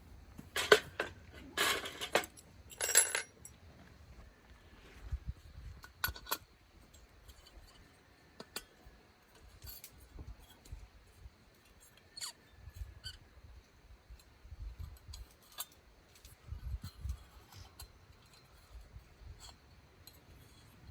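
Clinking and knocking of small hard objects being handled: a few sharp clinks in the first three seconds, one more about six seconds in, then scattered light taps.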